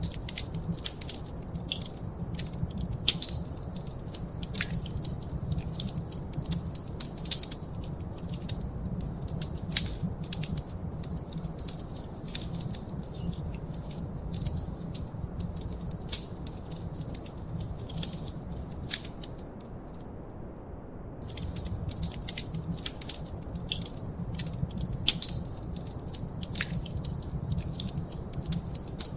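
Fireplace fire crackling, with irregular sharp pops and snaps over a low steady rumble. The crackle stops for a second or two about two-thirds of the way through, then starts again.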